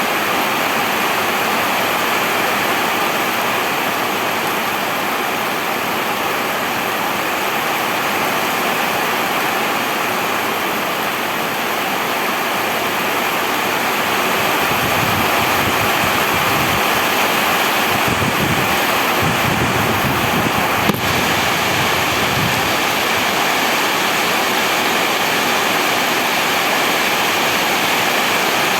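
Heavy rain falling steadily, a dense even hiss. About halfway through, a low rumble swells for several seconds and fades, with a single sharp tick near its end.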